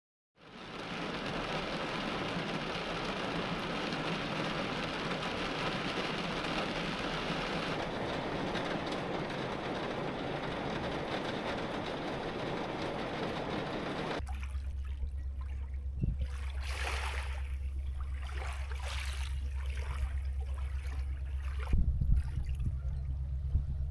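Heavy rain falling steadily. About halfway through it cuts abruptly to a strong, steady low rumble with faint splashy sounds over it and a few knocks near the end.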